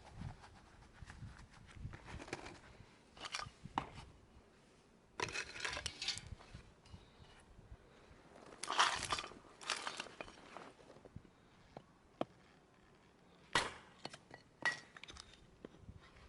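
Things being handled in irregular bursts: rustling and crunching, with a few sharp clicks and clinks.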